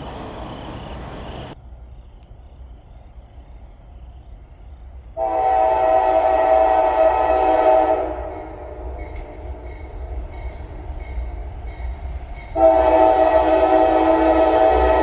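Locomotive air horn sounding two long chord blasts, the first about five seconds in and lasting under three seconds, the second starting near the end and still sounding, over a low rumble.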